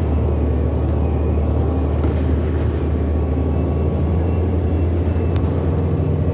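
Steady low drone and rumble of a 2008 Orion NG hybrid-electric transit bus under way, heard from inside, with a faint steady high tone running above it.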